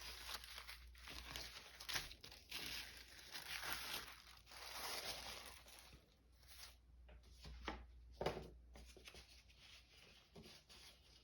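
Sheets of paper rustling and crinkling as they are handled and shuffled through, in faint swells with a few short sharper rustles.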